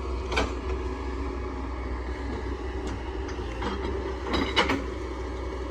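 Hydraulic excavator's diesel engine running steadily, with a few sharp metallic clanks: one near the start and a louder cluster about three-quarters of the way in.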